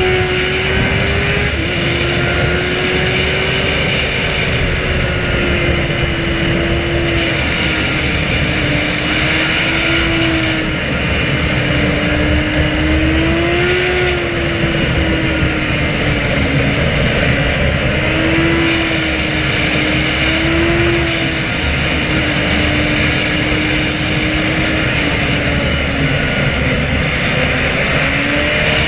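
Inline-four sport motorcycle engine running hard at steady road speed, its pitch swelling and easing with the throttle and dropping once near the start, over a loud rush of noise.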